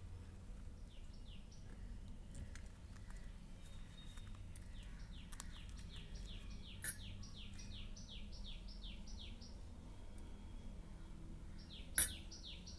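A bird calling in runs of short, quick falling chirps, about three a second, with the longest run in the middle. Two short clicks break in, one about seven seconds in and a louder one near the end.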